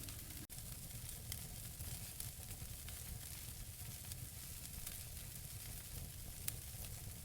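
Wood fire burning in a fireplace: a steady soft hiss with scattered crackles and pops, the sharpest one near the end. The sound drops out for an instant about half a second in.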